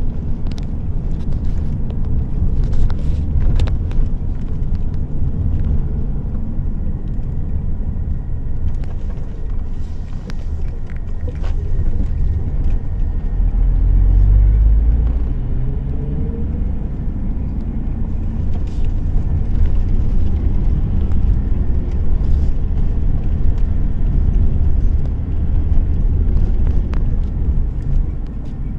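A car driving on the road: a steady low rumble of engine and tyres. Around halfway it swells, with a rising engine note as the car speeds up.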